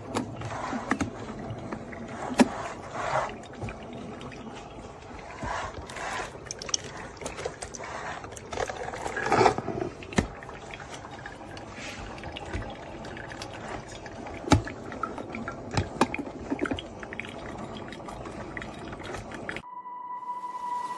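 Liquid pouring and trickling under scattered clicks and knocks of handling. It cuts off suddenly near the end, and a steady high tone follows.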